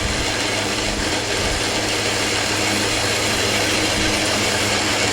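Metal lathe running steadily: a constant motor hum under an even hiss.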